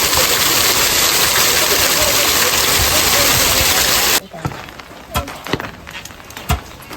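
A loud, steady rushing noise that cuts off abruptly about four seconds in, followed by a quieter stretch with scattered sharp knocks and clicks.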